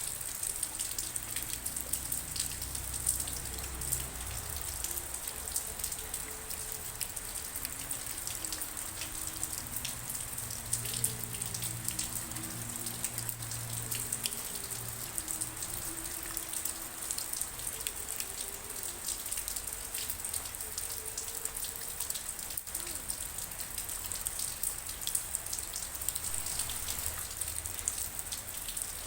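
Steady rainfall with a dense patter of individual drops striking a surface. Faint low wavering tones come and go in the background through the middle.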